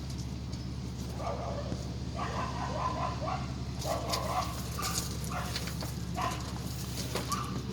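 A dog barking and yipping, a string of short calls starting about a second in, over a steady low hum.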